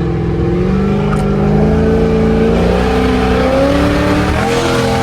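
Car engine accelerating at about half throttle, its pitch climbing steadily, with a brief drop about three and a half seconds in.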